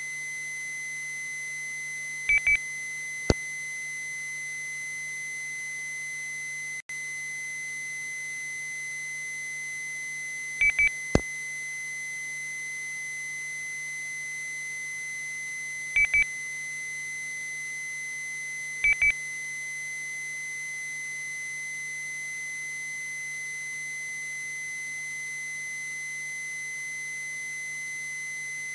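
A steady high-pitched tone comes over a two-way radio channel between transmissions. It is broken four times by short double clicks and once by a brief dropout.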